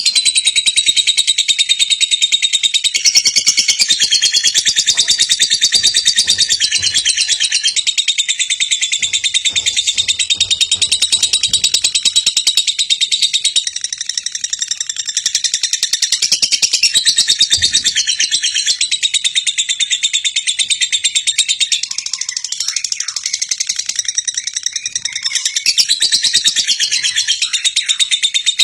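Lovebird singing in a long, unbroken run of very fast, high, shrill chirps and chatter. This is the kind of continuous 'gacor' song played as a lure (pancingan) to get young, untrained lovebirds to sing along.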